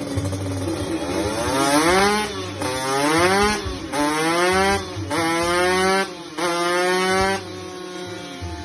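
Two-stroke motorcycle engine on a dynamometer, revving up in about five rising pulls, each broken off by a short dip in level and pitch, then settling to a steady lower note near the end.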